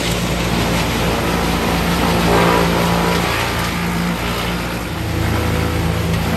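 A large engine running steadily, its note changing about five seconds in, from heavy machinery on a tree-removal job.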